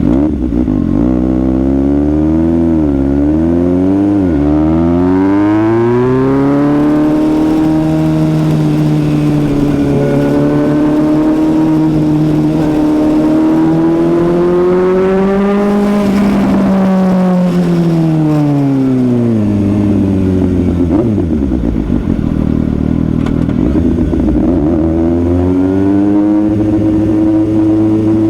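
Suzuki GSX-S750's inline-four engine under way at speed, its revs climbing and holding, then dropping sharply about two-thirds of the way through as the rider backs off, and rising again near the end.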